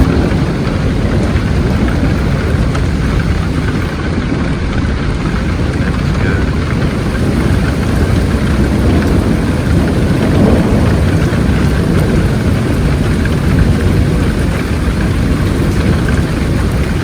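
Thunder rumbling at length over steady rain, swelling slightly about ten seconds in.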